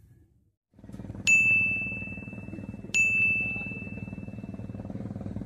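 Two clean, bright 'ding' sound effects, the second about a second and a half after the first, each ringing on and fading for more than a second over a low steady background.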